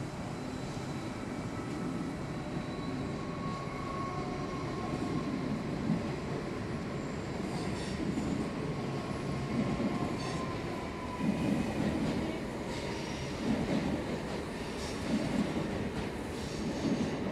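Electric passenger trains running slowly through the station tracks, their wheels rumbling and knocking over the rails, louder in the second half. A faint motor whine slowly falls in pitch, and there are a few brief high wheel squeaks.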